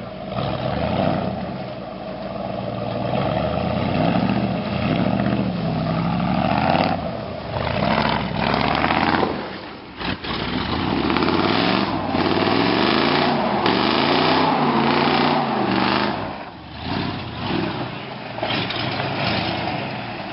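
1988 Ford F-150's 302 (5.0 L) V8 engine revving up and down again and again, with brief drops in level about ten seconds in and again near sixteen seconds.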